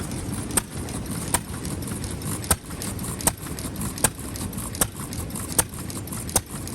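Vintage Japanese stationary engine running slowly, a sharp exhaust pop on each firing about every three-quarters of a second over a low chugging rumble, with one skipped beat near the start.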